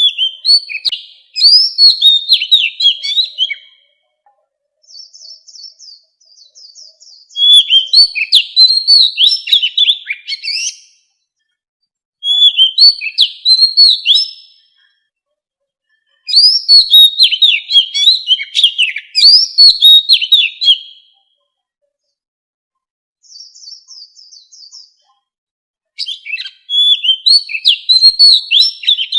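Oriental magpie-robin singing: loud phrases of rapid, sweeping whistled notes a few seconds long, separated by short pauses, with a few quieter high trills in between.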